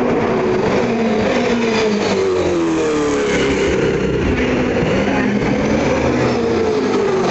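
Several V8 Supercar race cars running at speed, their V8 engine notes overlapping and sliding up and down as they brake, change gear and accelerate.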